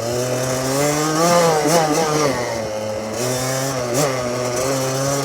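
Small dirt bike engine running under way, its pitch rising to a peak a little over a second in and easing off, then rising again, with a few short knocks from the bike's ride over the dirt.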